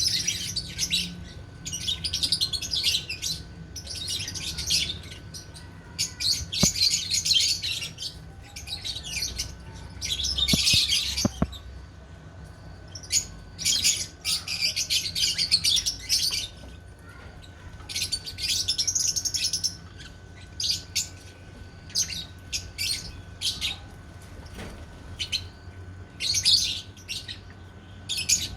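Lovebirds chattering: repeated bursts of high, rapid chirping calls, each a second or two long, with short pauses between them.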